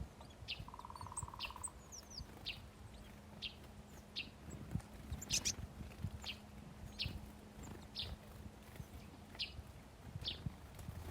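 Small songbirds chirping: short, high chirps about once a second, with a few quick higher notes mixed in. A brief buzz comes about a second in.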